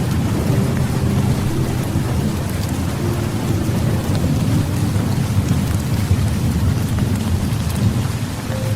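Heavy rain falling steadily, with a continuous low rumble of thunder underneath.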